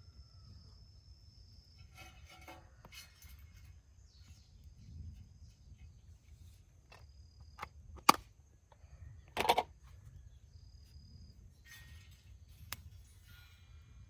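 A few sharp knocks and clacks, the loudest two about a second and a half apart in the middle, with some rustling, over a faint steady high trill.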